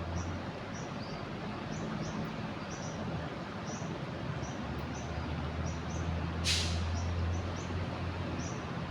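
Steady rush of a flood-swollen river, with a small bird giving short high chirps over and over, a low engine-like hum underneath, and a brief hiss about six and a half seconds in.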